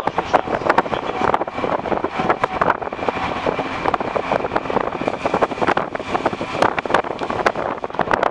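Wind buffeting the microphone over the steady noise of a moving vehicle, with irregular crackles and knocks throughout.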